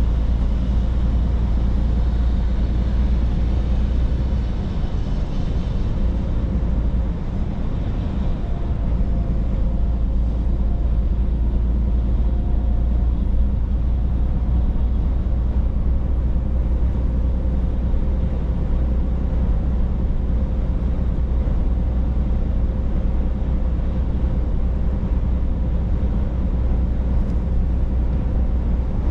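Scania truck driving along: a steady low engine drone with tyre and road noise.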